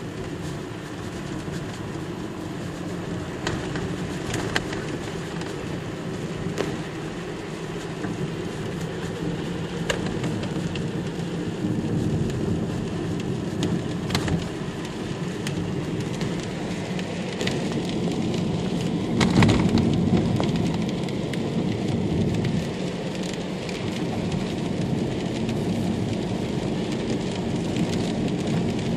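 Irregular light knocks and taps from a Kia Ceed's dashboard in the area of the windscreen air duct, over steady road and engine noise inside the moving car's cabin. This is a stray rattle that has only recently appeared and whose cause the owner has not found. A louder thump comes about nineteen seconds in.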